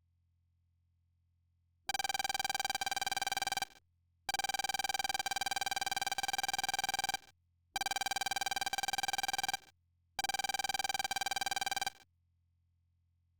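Electronic buzzing tone sounding in four bursts of about two to three seconds each, separated by short silences.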